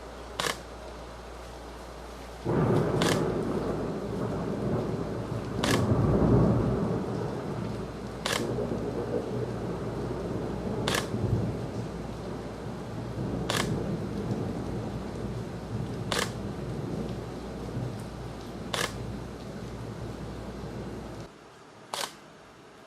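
Thunder from a nearby lightning strike: a sudden loud crack about two seconds in opens into a deep rolling rumble that swells and fades over more than fifteen seconds, then stops abruptly near the end. A faint sharp tick repeats about every two and a half seconds throughout.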